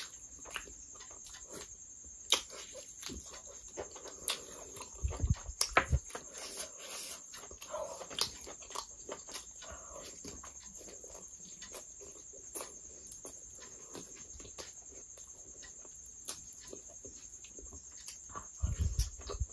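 Close-miked chewing and wet lip-smacking of a person eating curry and paratha by hand, many short smacks and clicks, with a few low thumps about five seconds in and near the end.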